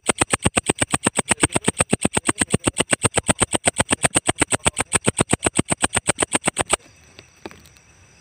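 Walang ecek insect calling in a fast, even train of loud, high-pitched pulses, about eight a second. The train cuts off suddenly about seven seconds in, and a couple of faint clicks follow.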